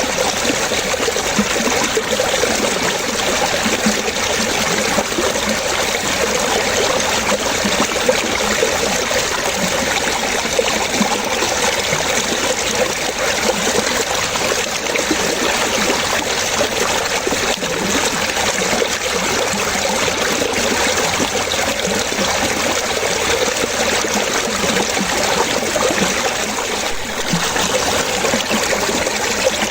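Running water splashing and trickling steadily, at an even level throughout.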